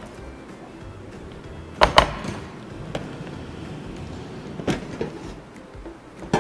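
Plastic clunks and knocks of an air fryer basket being slid out and handled: a double knock about two seconds in, then a sharp knock near the end.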